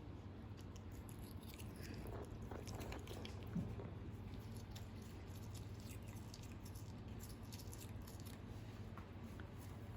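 A cat chewing and biting at a toothbrush during tooth brushing: faint soft clicks and rustles over a low steady hum, with a light knock about three and a half seconds in.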